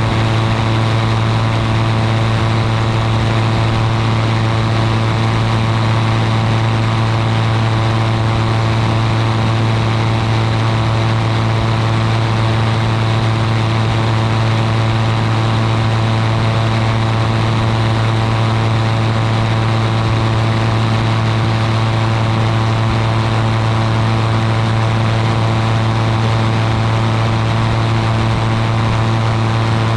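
Ultralight aircraft's engine and propeller running at a steady cruise, a loud, even drone with no change in pitch.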